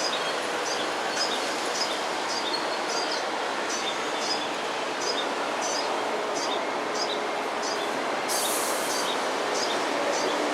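Female olive-backed sunbird giving short, high chirps, about two a second, over a steady noisy background rumble. A brief hiss comes about eight seconds in.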